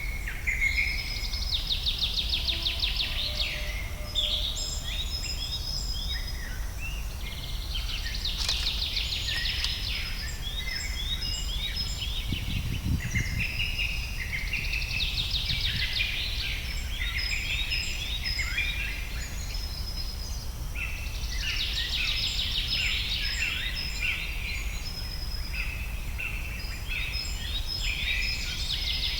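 Several songbirds singing at once, a chorus of overlapping trills, chirps and whistles that thickens into busier bursts every few seconds, over a steady low background rumble.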